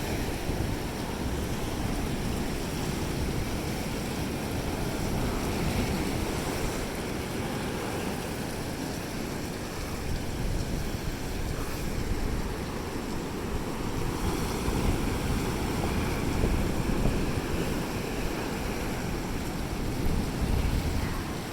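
Ocean waves breaking and washing onto the beach, a steady surf wash with wind rumbling on the microphone.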